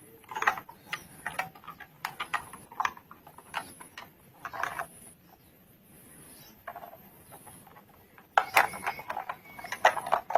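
Plastic wheels of a toy car kit being handled and pushed onto their axles: scattered small plastic clicks and knocks, busier near the end.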